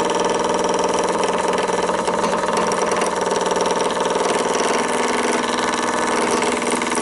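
Wood lathe running at speed with a roughing gouge cutting into a rough Irish elm blank: a steady motor hum under the continuous rough noise of the cut.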